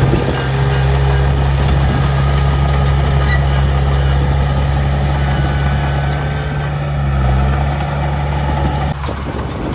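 Heavy diesel engine of earthmoving machinery running steadily with a low hum, with faint clinks over it. The engine hum stops abruptly near the end.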